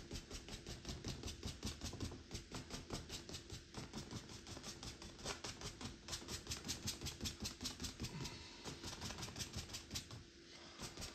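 Paintbrush scrubbing rapidly back and forth on an oil-painted canvas, a fast even run of short scratchy strokes about five or six a second, with brief pauses.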